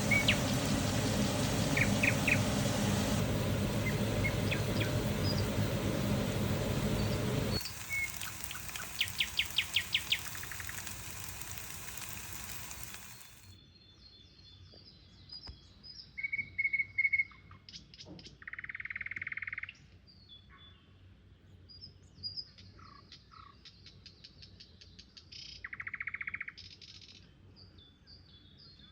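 Small birds chirping and calling at intervals. For the first half this is over a loud steady rushing noise, which drops in two abrupt steps and is gone about halfway through.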